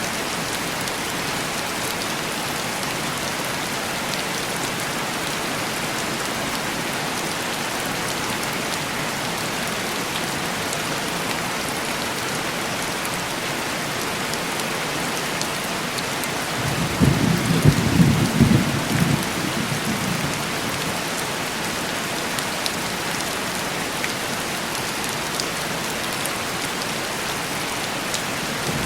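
Steady heavy rain on window glass. A rumble of thunder rises about two-thirds of the way through and fades over a few seconds, and another starts right at the end.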